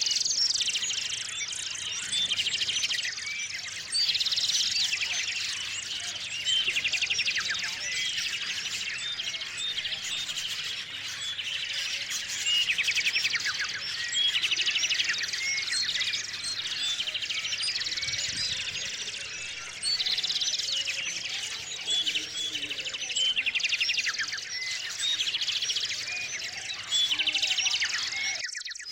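A chorus of small songbirds chirping and trilling without a break, with a fast, high trill coming in every couple of seconds over the continuous chirping.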